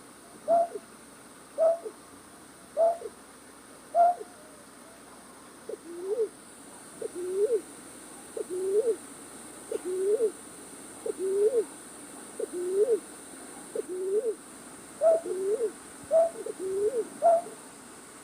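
Night-bird call used as a trapping lure: short hooting notes repeated about once a second. The first notes are higher. From about six seconds in, the notes are lower and rise then fall. Near the end, higher and lower notes come together.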